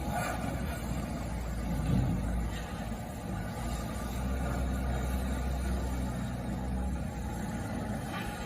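A motor vehicle running: a steady low rumble with a noisy haze over it, briefly louder about two seconds in.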